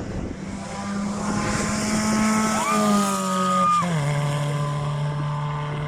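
Racing car engine running steadily, revved up briefly about two and a half seconds in, held for about a second, then dropping back to a lower steady note.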